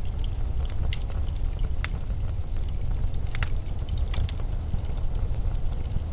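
Blizzard wind as a steady low rumble, with irregular sharp crackles and ticks scattered over it.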